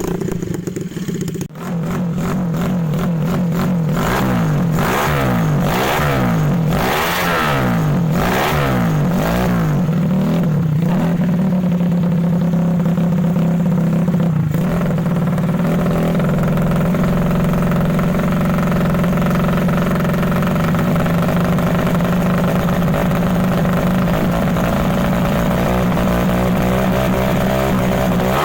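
Yamaha Mio scooter engine at 150 cc with a CLD Monster exhaust, revved in repeated short blips, each rising and falling, for roughly the first ten seconds. After that it is held at a steady engine speed.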